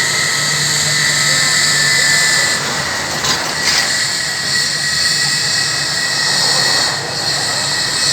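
Airbus A320 jet engines running: a steady, loud rush with a high whine and a low hum, and a brief rattle about three seconds in.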